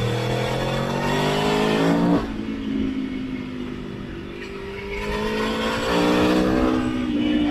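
Motorcycle engine accelerating on the road: its pitch climbs for about two seconds, drops abruptly, then climbs again from about five seconds in.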